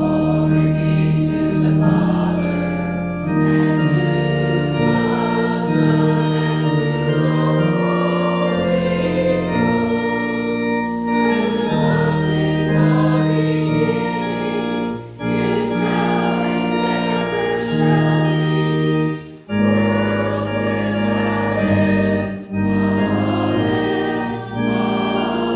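Organ accompanying voices singing a hymn in sustained chords, with short breaks between phrases.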